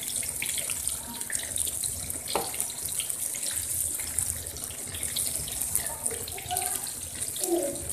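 Batter-coated eggplant slices frying in hot oil in a wok: a steady, crackling sizzle as a spatula turns them, with one sharp knock about two and a half seconds in.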